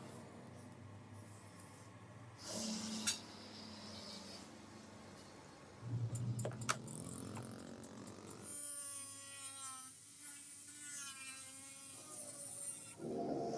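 Workshop sounds: a couple of short bursts of handling noise with sharp clicks, then a small power tool whining for about four seconds.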